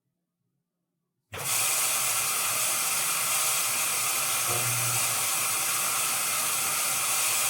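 Washing machine filling with water: after about a second of silence the inlet valve opens suddenly and water rushes steadily into the drum as a loud hiss, with a brief low hum partway through.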